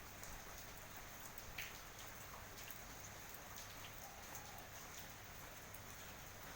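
Light, steady rain, with scattered drops ticking irregularly. A single short, sharper sound stands out about a second and a half in.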